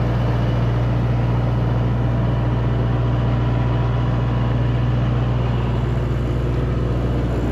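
Engine running steadily with a deep, even hum, most likely a tractor's.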